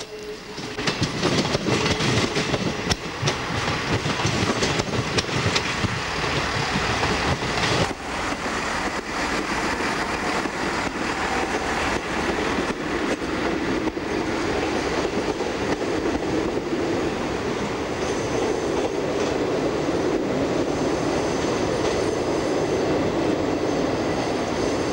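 A train running along the track, with a fast clickety-clack of wheels over rail joints for the first several seconds. After that it settles into a steadier rumble of rail noise, with faint high ringing tones in the latter half.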